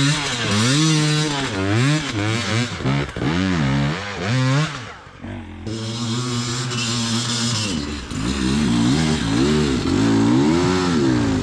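Enduro dirt bike engine revving hard, its pitch rising and falling over and over with the throttle, with a short let-off about five seconds in.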